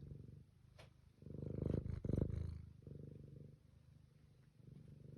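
Domestic cat purring with a steady fast pulse, swelling louder for two breaths between about one and two and a half seconds in, then settling back to a softer purr.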